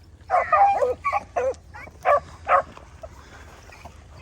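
Beagles baying on a rabbit's trail: about six short, falling-pitched yelps and barks in quick succession over the first three seconds, then the dogs go quiet. This is hounds giving tongue on the scent during a rabbit chase.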